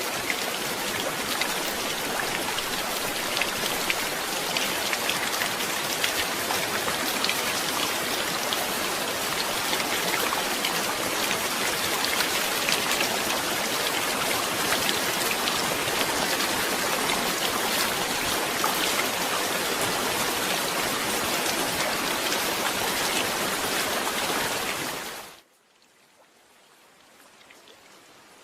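Steady heavy rain, an even hiss full of fine drop patter. About 25 seconds in it falls away sharply to a much quieter rain sound that slowly swells again.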